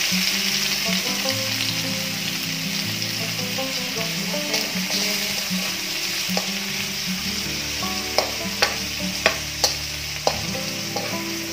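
Raw chicken pieces sizzling in a little hot oil with browned garlic in a metal wok, stirred with a metal spatula. Near the end about five sharp clicks sound as the spatula knocks and scrapes against the wok.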